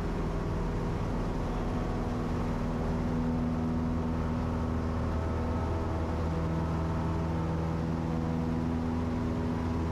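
Cessna 172's piston engine running steadily at full throttle during the takeoff roll and initial climb, a constant drone.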